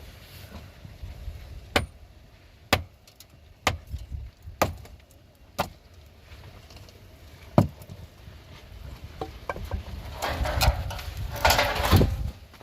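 A series of sharp knocks, about one a second, followed near the end by a longer scraping, rustling noise.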